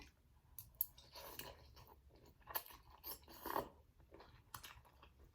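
Faint chewing of spicy ramen noodles close to the microphone, a scatter of short soft mouth sounds.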